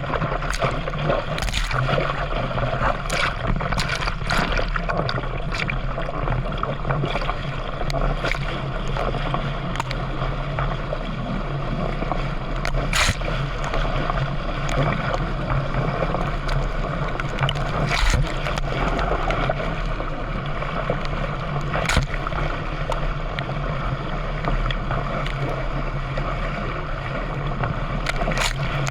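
Water rushing and splashing around a paddled canoe or kayak, with a sharp splash or knock every second or few. A low steady hum runs underneath.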